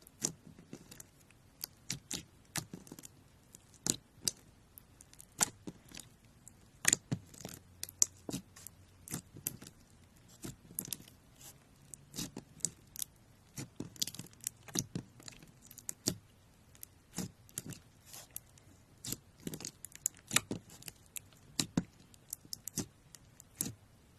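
Homemade slime being squeezed and poked by hand, giving irregular sharp clicks and pops, several a second, as air pockets in the slime burst.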